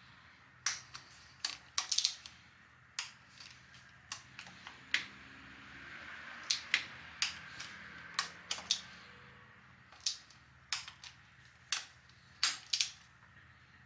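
Metal tools and engine parts clicking and clinking in irregular sharp strokes, one or two a second, while worn rocker arms and camshaft are being swapped on a motorcycle cylinder head.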